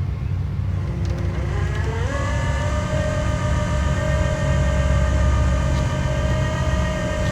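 Rollback tow truck's engine and hydraulic pump running as the hydraulic controls are worked: a whine rises in pitch about a second in, then holds steady over the engine's low rumble.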